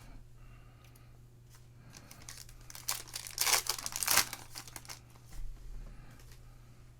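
Foil trading-card pack wrapper crinkling and being torn open, with a cluster of loud crackles from about three seconds in, loudest just after four seconds.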